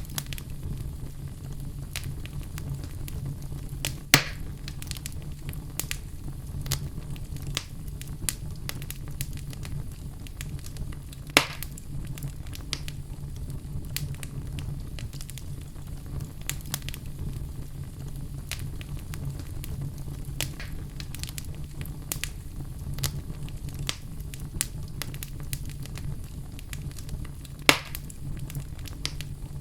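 Wood fire burning in a fireplace: a steady low rumble with frequent small crackles and three louder pops, about four seconds in, near the middle and near the end.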